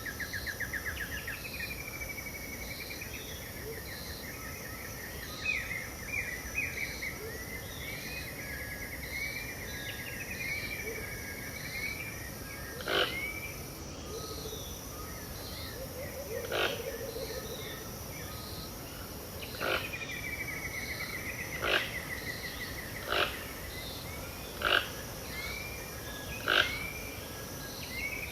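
Dawn chorus of birds, with trilled and whistled calls, over a steady high-pitched insect drone. In the second half, short loud, sharp calls ring out every one and a half to three seconds.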